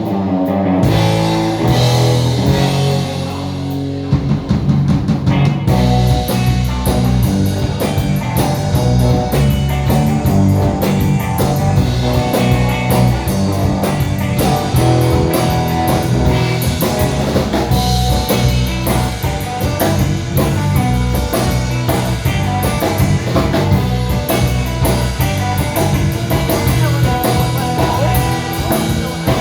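Live rock band playing an instrumental passage, with guitar, bass and drum kit and no singing. The drums pick up with fast, even cymbal strokes about six seconds in.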